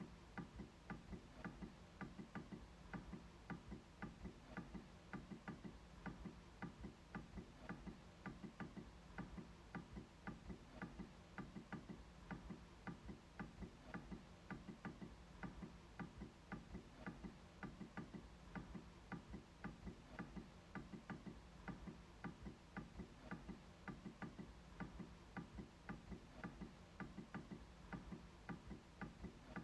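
MacBook trackpad being clicked over and over: faint, sharp clicks at a fairly even pace, about two or three a second.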